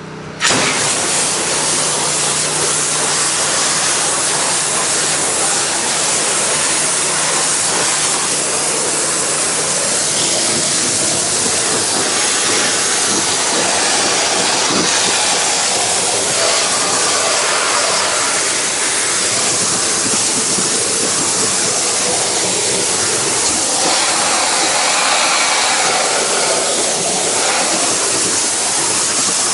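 Pressure washer spray jetting water onto a painted wood deck, a loud steady hiss that starts about half a second in, cleaning dirt from between the boards. A low hum sits under it for the first ten seconds or so.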